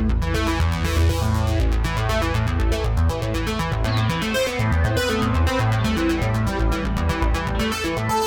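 Cherry Audio P10 software polysynth playing an arpeggiator preset: a fast run of repeating synth notes over a low bass line.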